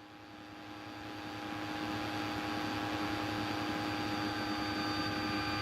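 Steady drone of a light aircraft's engine and propeller heard inside the cabin, with several fixed tones over a broad hiss. It grows louder over the first two seconds, then holds steady.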